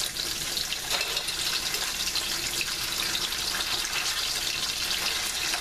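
Pieces of firm tofu frying in a deep layer of oil in a stainless steel pot: a steady sizzle.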